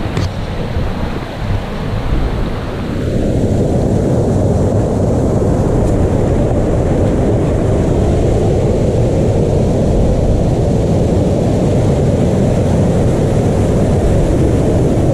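River stream, swollen by rain a couple of days before, rushing steadily. The rush turns louder and deeper about three seconds in.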